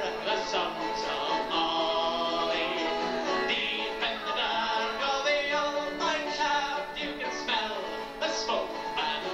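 Irish folk band playing live, a lively melody over full accompaniment.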